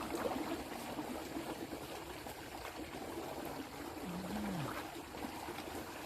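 Storm runoff water running and trickling steadily.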